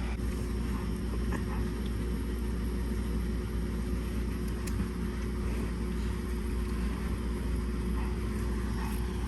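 Steady low mechanical hum with a faint steady tone above it, unchanging throughout, and a few faint small ticks.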